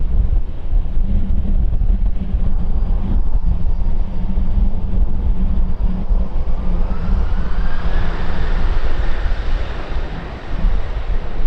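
Jet airliner engines passing the microphone: a whine that rises in pitch and grows louder from about halfway through, peaking near the end, over a low rumble. Heavy wind buffets the microphone throughout.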